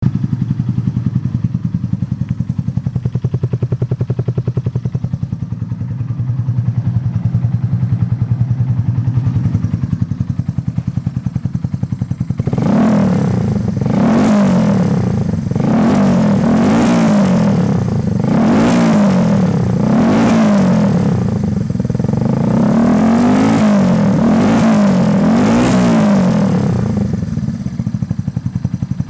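Yamaha TW200's single-cylinder four-stroke engine, breathing through an aftermarket White Brothers muffler, idling steadily. About twelve seconds in it is revved up and back down about ten times in quick succession, then settles back to idle near the end.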